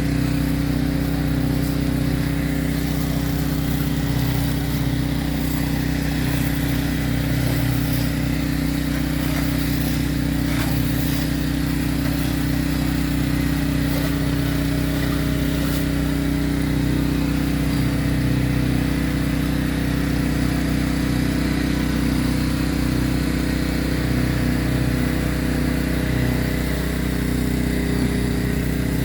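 Gas-engine pressure washer running steadily at a constant speed.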